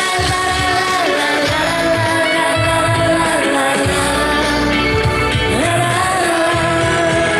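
Live pop-rock band playing a song with singing over it. Long held notes slide up into pitch, over a steady bass beat.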